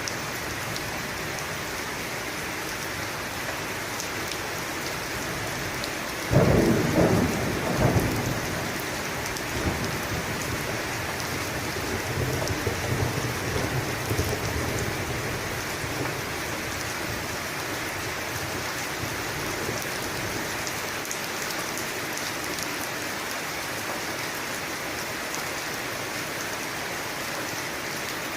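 Steady heavy rain with a sudden loud thunderclap about six seconds in, followed by a lower, quieter rumble of thunder a few seconds later.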